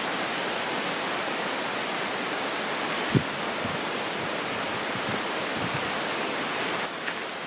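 Steady rush of a flowing river, with one short low knock about three seconds in.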